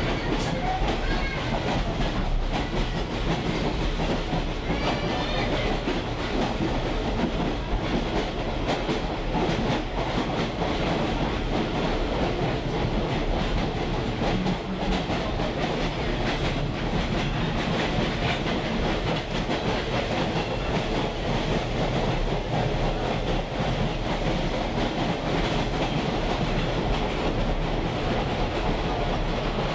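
A train rolling along the track, heard from aboard a riding caboose: a steady rumble of wheels on rail with clickety-clack over the rail joints. A few faint high squeals come near the start and about five seconds in.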